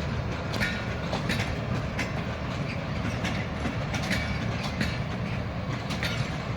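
Passenger train rolling through a railway station yard: a steady rumble with sharp wheel clicks over rail joints and points, about one or two a second.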